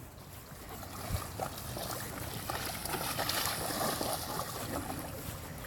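A child's boots wading and splashing through a shallow puddle: a continuous watery sloshing that builds from about a second in and eases off near the end.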